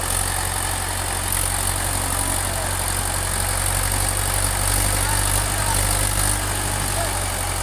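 Tractor engine running at a steady, even low drone.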